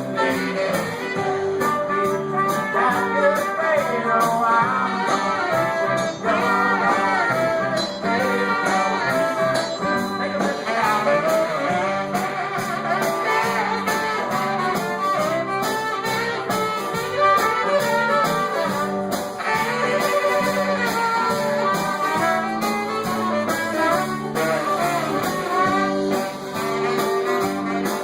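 Live band playing a blues song.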